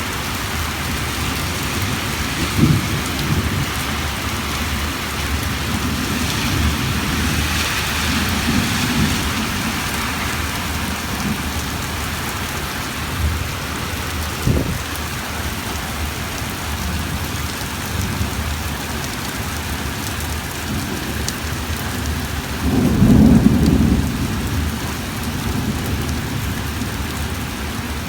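Heavy rain falling steadily, with low rumbles of thunder now and then; the longest and loudest rumble comes about four-fifths of the way through.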